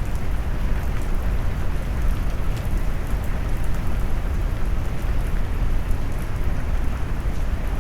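Steady rain mixed with deep brown noise, a low, warm rumble under the hiss of the rain, with faint drop ticks scattered through it. It runs evenly, without swells or pauses.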